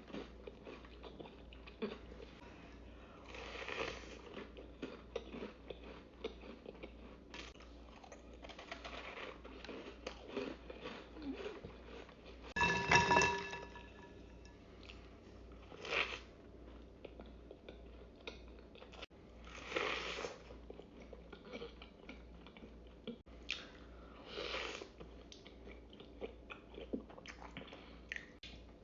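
Close-up mouth sounds of someone biting and chewing a giant cookie, with short louder bites every few seconds. About halfway through there is a brief louder sound with a ringing note in it.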